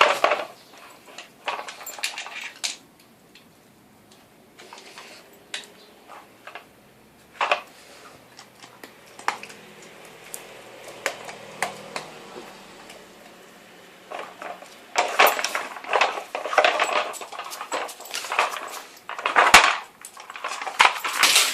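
Dog Tornado treat-puzzle toy clattering and clicking as a dog turns its stacked layers to get at treats. Scattered knocks at first, growing into busy rattling over the last several seconds.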